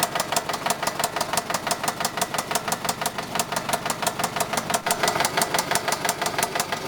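1998 Toyota Camry engine running with a major rapping knock, an even, rapid beat of about seven knocks a second. The owner takes it for worn piston bearings or a bent rod, and the Lucas Oil Additive just poured in has not quietened it.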